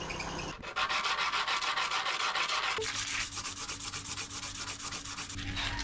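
Fast, steady scrubbing: a wedding ring being rubbed back and forth to clean and polish it, starting about half a second in.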